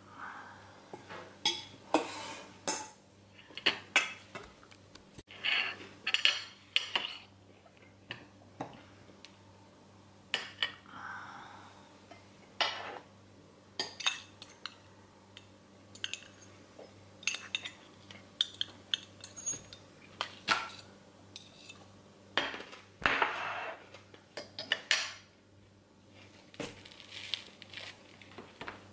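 Kitchen clatter as food is prepared: dishes, pots and utensils being handled, giving irregular clinks and knocks with a few short swishing sounds in between.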